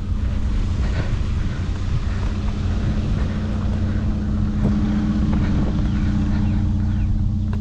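A vehicle engine running steadily at idle, a low even hum, with a few light knocks over it.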